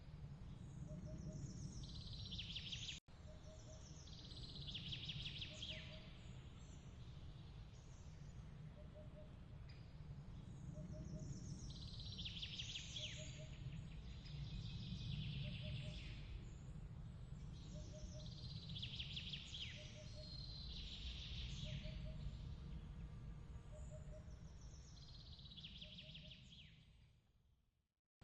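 Birds chirping in recurring bursts of quick trills every few seconds over a steady low rumble, with a soft pip repeating about every two seconds. The whole mix fades out near the end.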